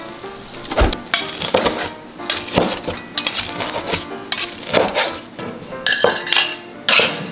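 Metal spatula scraping and knocking against a frying pan in a run of irregular clatters, as the just-fried scallion pancake is taken out of the pan.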